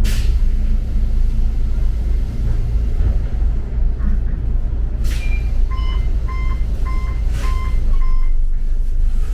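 Double-decker bus running with a steady low engine and road rumble. Short air hisses come at the start and twice more later. About two-thirds of the way through, an electronic beeper sounds five times, roughly two beeps a second.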